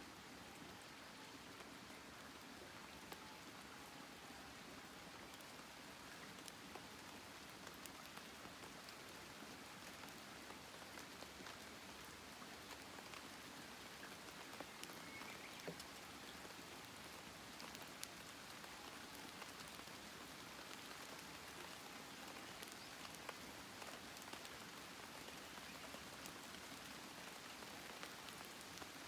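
Wood campfire burning, faint: a steady hiss with many scattered small crackles and pops.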